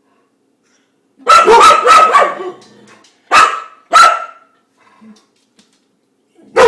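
Dog barking at the spinning dishwasher spray arm: a quick run of loud barks about a second in, two single barks a little later, and one more near the end.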